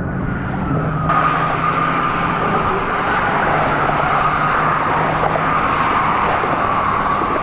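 Motorcycle engine running under steady road noise, with a steady whine, growing louder about a second in.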